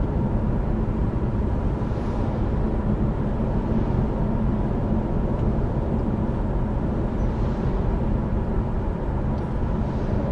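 Steady road and engine noise heard from inside a moving car on the highway, a low constant rumble with no break.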